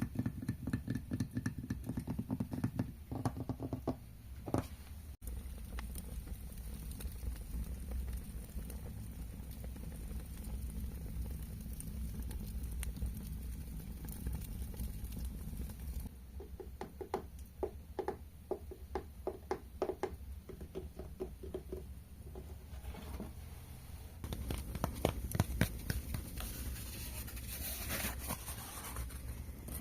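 Rapid tapping on hard objects, coming in bursts of quick strokes with a short ringing pitch to some of them, over a steady low rumble.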